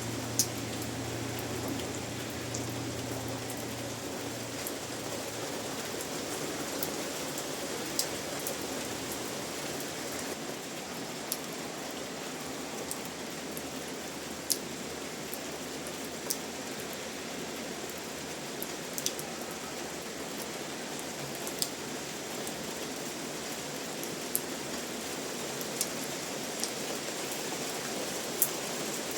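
Steady rain falling, with single heavier drops ticking sharply every second or two.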